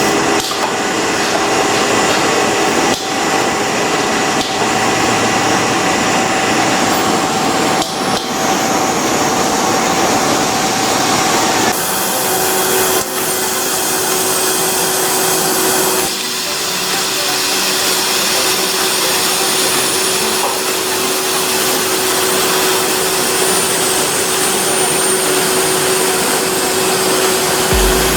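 Steady mechanical workshop noise with a few sharp knocks, changing abruptly about twelve and sixteen seconds in.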